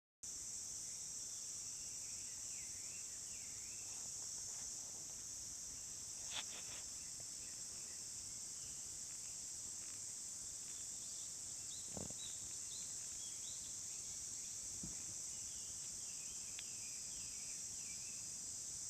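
Steady high-pitched chirring of insects, with scattered short chirping calls and a few sharp clicks, the loudest about six seconds in.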